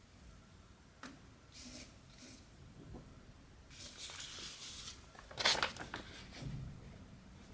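Cotton embroidery thread being pulled through stamped cross-stitch fabric: a few short hissing pulls with small handling ticks, the loudest pull about five and a half seconds in.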